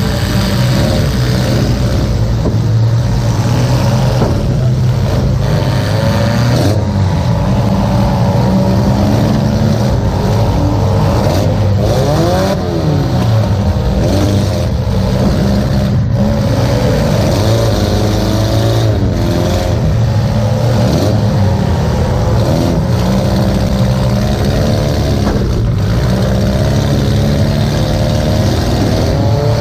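Demolition derby car's engine running hard inside its stripped-out cabin, revving up and down as the car is driven, with a steady low drone beneath the revs.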